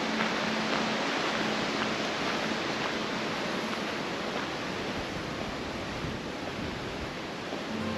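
Steady rushing of flowing water, a stream or waterfall, as a continuous even hiss with no breaks.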